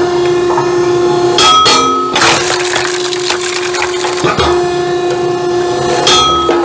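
Split firewood being pulled apart by hand, cracking and splintering about three times over a steady hum.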